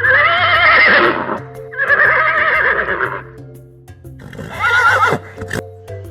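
A horse whinnying three times, each a loud, quavering call about a second long, over background music.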